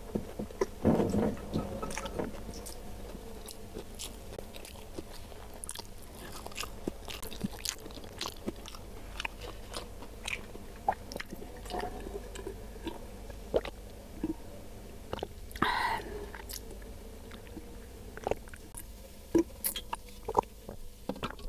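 Close-miked chewing of a mouthful of nasi padang: wet mouth clicks and soft crunches throughout, with a louder burst about a second in.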